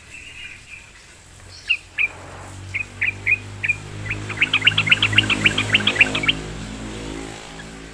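Yellow-vented bulbul (trucukan) singing: a few short chirps, then about two seconds in a fast run of bright notes at roughly six a second, over a low steady hum.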